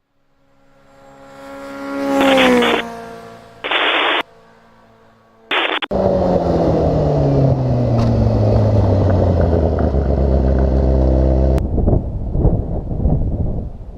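Engine sounds cut together in quick edits: a motorcycle engine note that swells and drops in pitch, two brief clipped bursts, then a loud engine note falling steadily in pitch for about six seconds before it cuts off suddenly, followed by rougher noise.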